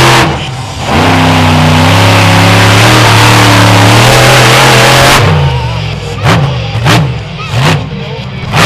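Monster truck engine held at full throttle for about four seconds, then let off and blipped in four short revs, each rising and falling in pitch.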